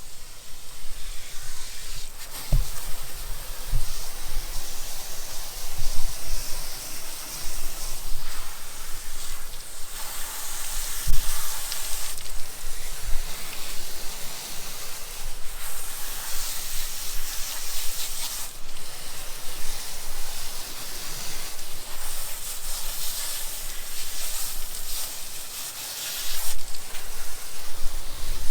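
Garden hose spraying water in several spells of varying strength, soaking a stiff, dried-out chamois to soften it. A few low knocks in the first half.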